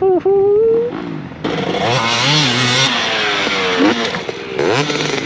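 Dirt bike engine revving hard, its note climbing in the first second. Then a louder, rougher stretch of engine noise with hiss from about one and a half to three seconds in, and another short surge near the end.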